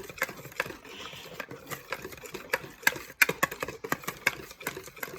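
Cream and condensed milk being beaten by hand in a bowl, the mixing utensil clicking quickly and irregularly against the bowl.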